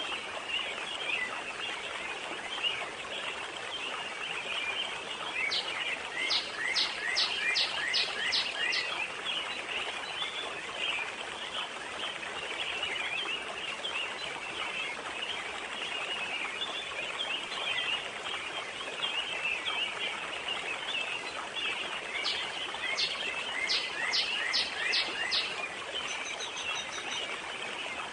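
Forest pond ambience: a dense, continuous chorus of small chirps from birds and insects over a soft steady wash of wind and water. Twice a bird sings a quick run of about seven sharp descending notes, around six seconds in and again near the end.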